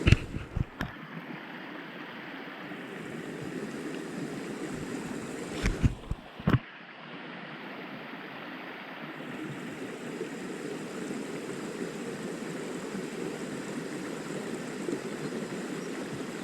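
Small stream's water running steadily over its bed. There are a few short knocks near the start and a cluster about six seconds in.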